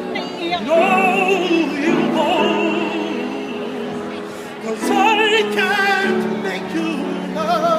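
Male singer performing a cappella in an operatic style, with wide vibrato on held high notes in three phrases: one soon after the start, one about five seconds in and one near the end. Lower notes are held steadily beneath the voice.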